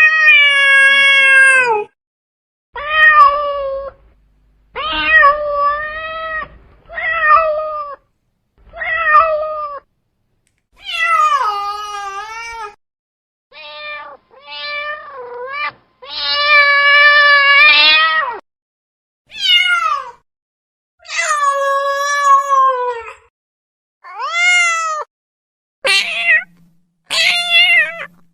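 Domestic cat meowing over and over: about a dozen separate meows, from short chirps to drawn-out calls of two seconds, with clean silence between them.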